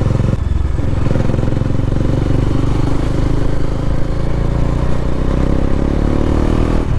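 Bajaj Dominar 400's single-cylinder engine running under way through its stock dual exhaust. The revs dip briefly just after the start, climb steadily through the second half, and break off near the end as for a gear change.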